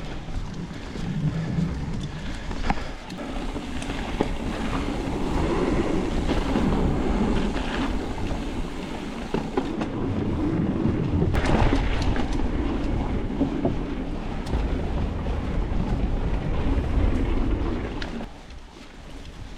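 Mountain bike being ridden along a dirt singletrack trail: a continuous rumble of tyres rolling over the ground with scattered knocks and rattles over bumps, and wind buffeting the helmet camera's microphone. It quietens a little near the end.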